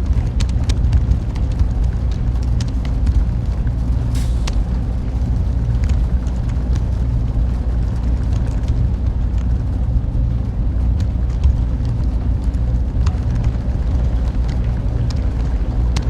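Steady low machine hum of server-room cooling fans and equipment, with faint scattered clicks and ticks over it.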